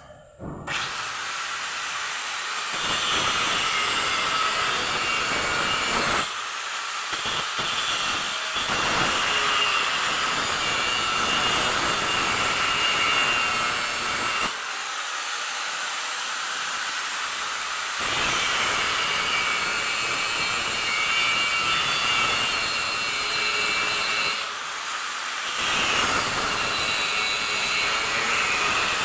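Steady mechanical hiss and whir, like a power tool or blower running, with a faint whine. It eases off briefly three times.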